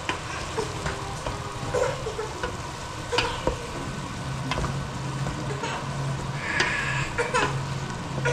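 Food sizzling in a pan on the stove, with several sharp clinks of a utensil against the cookware and a low steady hum joining about halfway through.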